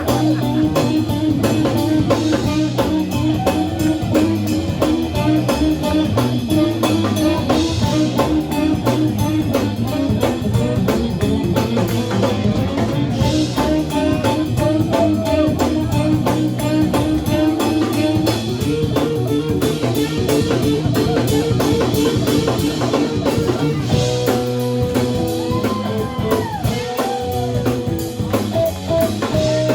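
Live band playing an instrumental passage: drum kit and bass keeping a steady beat under guitar, with long held lead notes over the top.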